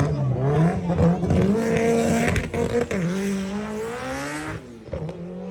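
Car engine accelerating hard under load, its pitch climbing, dropping sharply at gear changes about two and a half and three seconds in, then climbing again.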